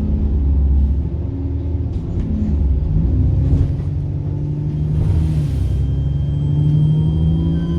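Diesel bus engine pulling with a steady low drone, heard from on board, with light rattles. About two-thirds of the way in, a thin high turbocharger whine comes in over it, one tone slowly rising.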